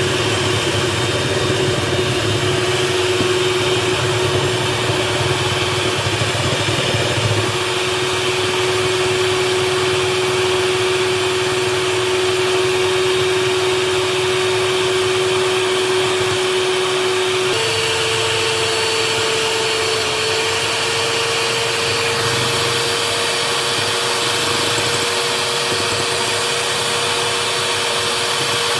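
Electric mixer running steadily, whisking air into a jelly and Greek yoghurt mixture; its motor steps up to a higher speed a little past halfway.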